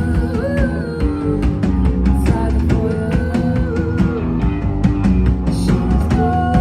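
A rock band playing live: guitars sustaining chords over a drum kit, with regular drum and cymbal hits keeping the beat.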